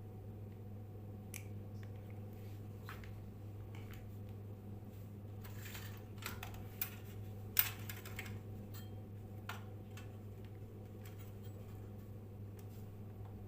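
A steady low electrical hum, pitched around 100 Hz with fainter overtones above it, with scattered small clicks and taps. Two sharper clicks come near the middle.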